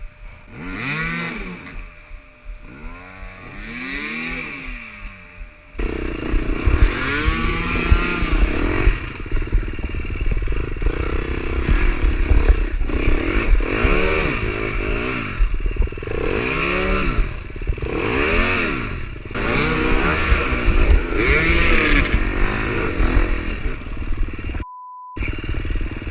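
Dirt bike engine revving up and down in repeated short bursts as the rider fights for traction on slippery ground. A short beep tone sounds near the end.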